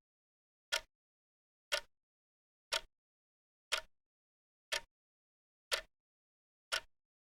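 Wristwatch ticking: sharp, single ticks exactly once a second, the steady one-step-per-second beat of a quartz second hand, with silence between ticks.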